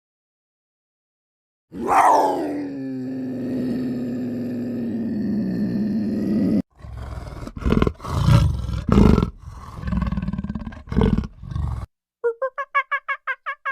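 Wild animal calls: one long call that drops in pitch and then holds low for about five seconds, cut off abruptly, followed by a series of short, low roars and growls.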